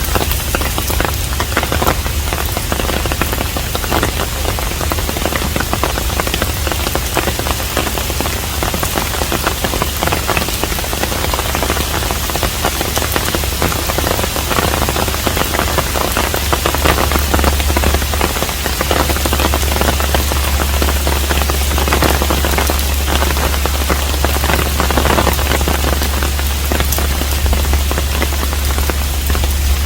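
Steady rain falling on a traditional Korean hanok house: a dense, even hiss of rain with many individual drops pattering through it, over a steady low rumble.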